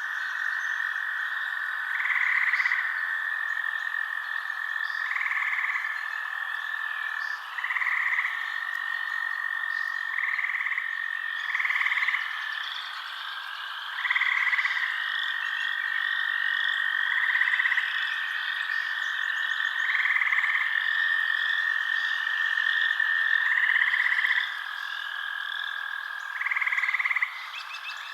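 Frogs calling in a night-time forest chorus: a continuous high trill under short calls repeating every two to three seconds, with a busy patter of higher chirps above.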